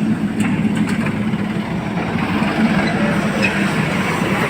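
Heavy diesel engine running steadily, with a few brief sharp clicks or knocks in the first second.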